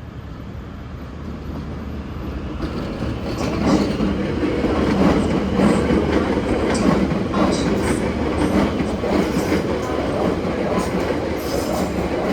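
Passenger train rolling along the track, growing louder over the first few seconds and then holding steady, its wheels clacking many times over rail joints.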